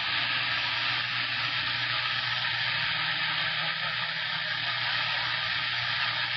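CB radio receiver hissing steadily with open-channel static between transmissions, a flat, even rush of noise with no voice on it.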